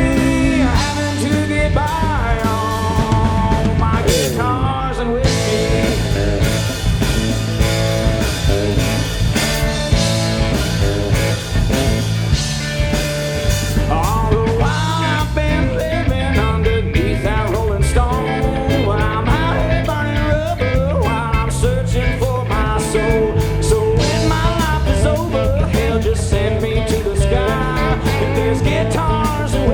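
Live country-rock band playing: a steady drum and bass groove with melody lines bending up and down in pitch over it.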